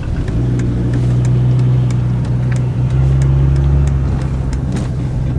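Diesel engine of a 1990 Mercedes 300D running while the car is under way, a steady low drone that gets a little louder about halfway through.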